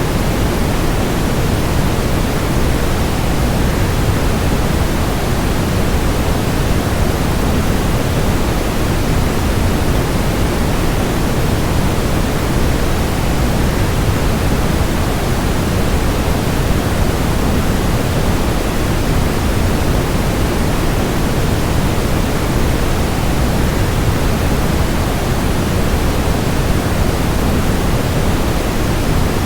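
Steady, even rushing noise of a waterfall layered with white noise, loud and unchanging, heaviest in the low range.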